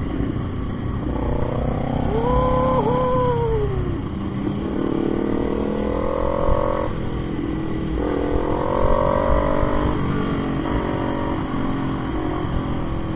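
Motorcycle engine accelerating through the gears: its pitch climbs three times, dropping at each shift, over a steady low rush of wind noise.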